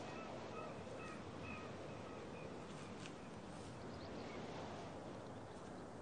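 A run of short, faint bird calls in the first half, over a steady rushing background noise.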